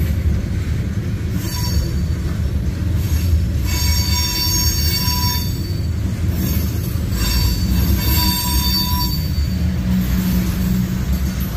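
CSX manifest freight train's tank cars and covered hoppers rolling past with a steady low rumble, the steel wheels squealing in high-pitched spells about three times.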